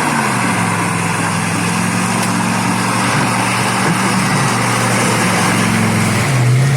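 Off-road SUV engine running steadily under load, its pitch dipping and recovering with the throttle at the start and rising briefly near the end.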